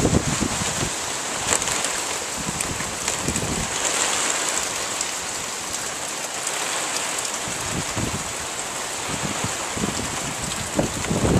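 Hurricane rain hissing steadily, with gusts of wind buffeting the microphone a few times, most strongly near the start and the end.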